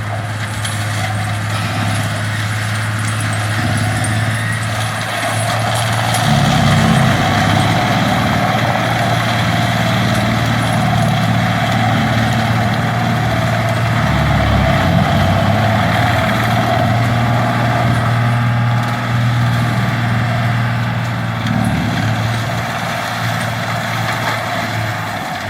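Fendt tractor's engine running steadily while powering a Seppi Multiforst forestry mulcher. An uneven, heavier churning joins it from about six seconds in to near the end, as the mulcher works under load.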